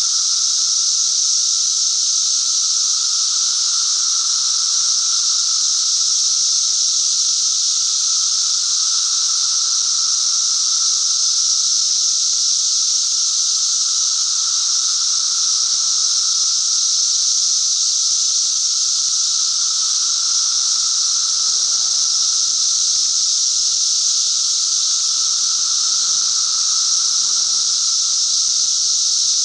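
Cicadas singing in a loud, steady, unbroken chorus: a continuous high-pitched buzzing hiss.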